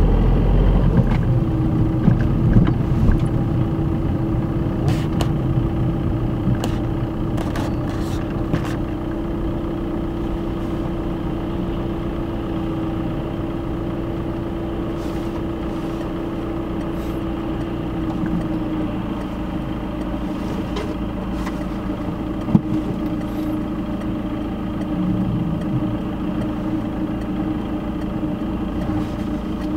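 Car engine and road noise heard from inside the cabin, with a steady hum. The car slows in the first few seconds and then idles while stopped. A few faint clicks come in the first several seconds.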